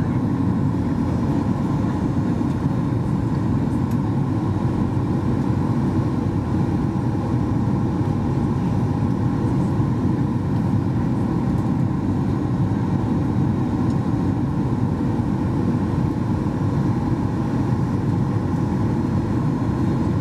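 Steady cabin noise inside a Boeing 737 MAX 8-200 in flight: the even rush of airflow over the fuselage mixed with the hum of its CFM LEAP-1B engines, unchanging throughout.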